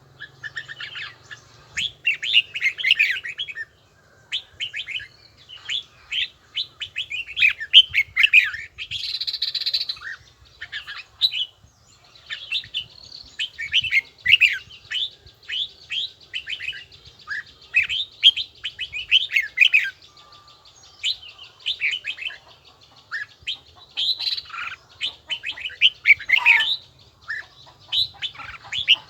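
Red-whiskered bulbul singing: bursts of quick, warbling whistled phrases repeated with short pauses between them.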